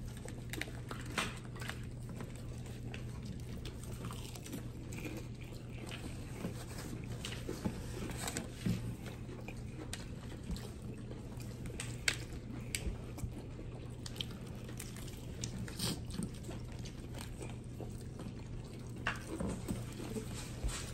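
Close-up chewing and biting into crispy fried food, with scattered crunches, over a steady low hum.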